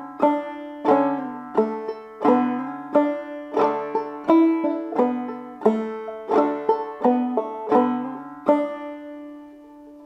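Clawhammer banjo playing an old-time tune in D major, a steady rhythm of struck notes. About eight and a half seconds in the playing stops on a final note left to ring out.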